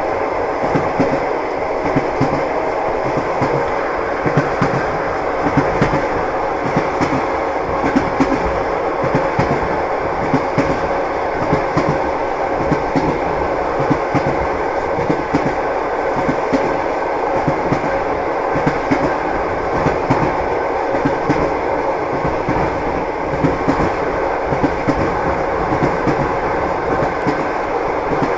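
A train running steadily, with the continuous rumble of the ride and the rhythmic clatter of wheels over rail joints. A faint steady hum sits under it.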